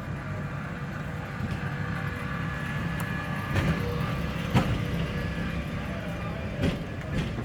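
Electric tram running past on street track: a steady low rumble with a few sharp knocks from about three seconds in, typical of wheels crossing rail joints.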